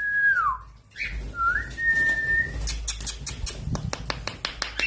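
Indian ringneck parakeet whistling: one note sliding down, then a held steady note. A run of quick sharp clicks follows in the second half.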